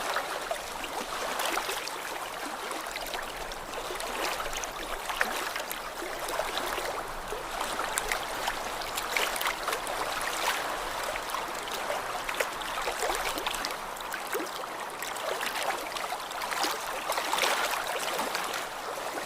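Small lake waves lapping at the water's edge: a steady wash with many small splashes and trickles.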